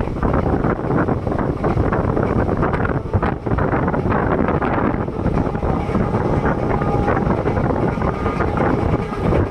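ICF passenger coach running along the track: a steady rumble of wheels on rails, with wind buffeting the microphone.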